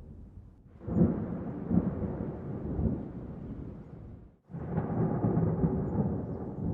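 Thunder: a sudden crack about a second in rolls into a low rumble that cuts off abruptly at about four and a half seconds, and a second peal starts right after and rumbles on.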